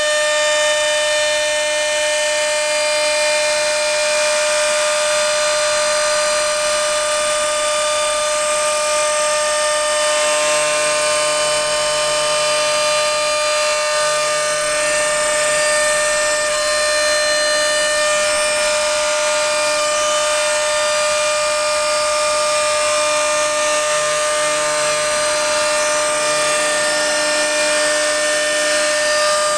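CNC machine cutting acrylic sheet, a steady high-pitched whine. Fainter lower tones come and go about a third of the way in and again near the end.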